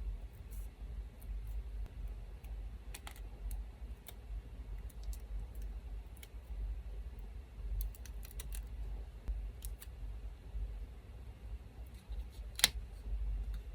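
Scattered light clicks and snips from scissors and small pieces of paper being handled, with one sharper click near the end, over a low steady hum from an electric fan.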